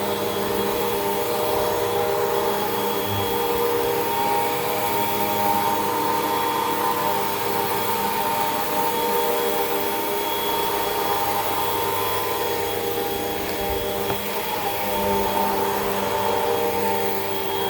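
Hoover WindTunnel 2 Rewind upright vacuum cleaner running steadily, a constant motor whine over airflow hiss.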